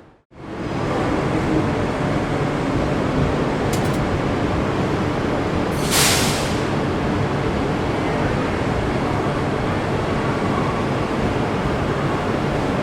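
Train running steadily on the rails, starting from a cut just after the beginning, with a short sharp hiss of air about six seconds in.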